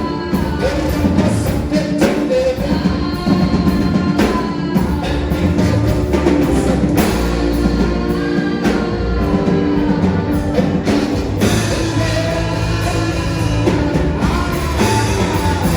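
Live gospel worship music: a band with drum kit plays steadily, with some singing over it.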